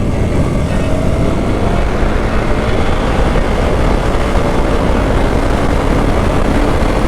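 Hero XPulse 200 single-cylinder motorcycle engine running steadily under way, mixed with a heavy rush of wind on the rider's microphone.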